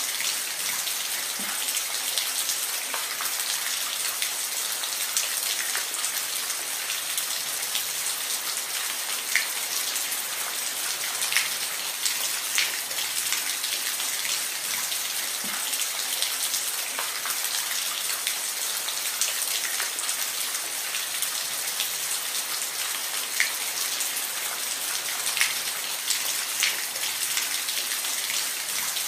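Steady rain with a dense hiss and scattered louder drop ticks standing out here and there.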